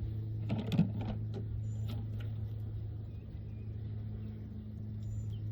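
A steady low hum, with a few knocks and rustles in the first second.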